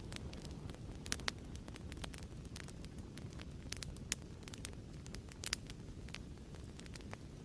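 Crackling fireplace: a steady low rush of burning wood with irregular sharp pops and snaps, a few louder pops standing out.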